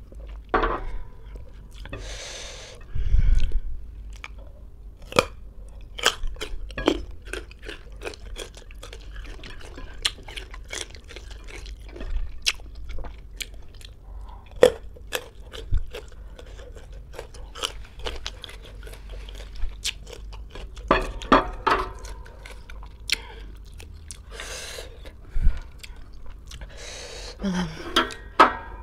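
Close-up chewing and crunching of raw green ambarella fruit, with many sharp crunches throughout. A loud thump comes about three seconds in.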